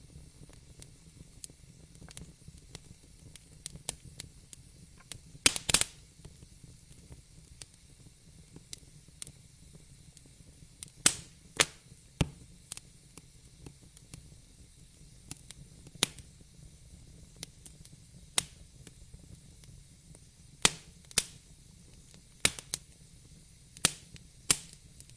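Wood fire in a fireplace crackling: irregular sharp pops and snaps, some in quick pairs, over a faint low hiss of burning.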